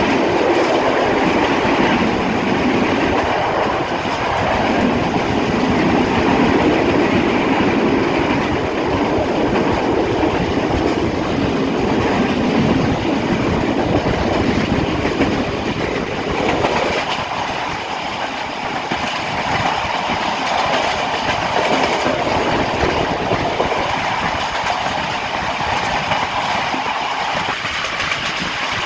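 Passenger train running at speed, heard from an open door of the carriage: the steady noise of steel wheels on the rails. About 17 seconds in, the deeper rumble drops away and the sound gets a little quieter.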